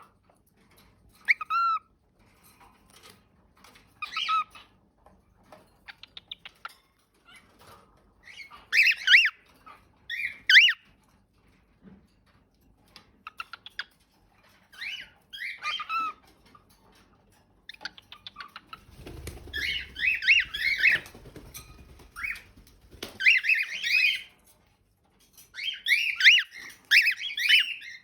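Cockatiel calling: short chirps and whistled notes, scattered at first, then in quick warbling runs over the last third.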